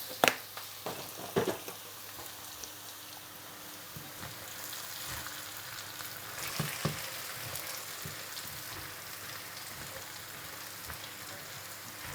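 Potatoes frying in hot oil in a pan, a steady sizzle, with a few short knocks of a utensil against the pan near the start and again about halfway through.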